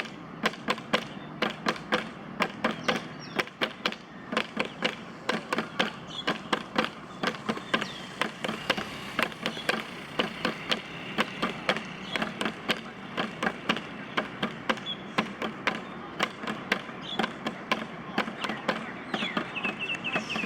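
Scattered clapping by a small group, with sharp, uneven claps about three or four a second over faint background voices.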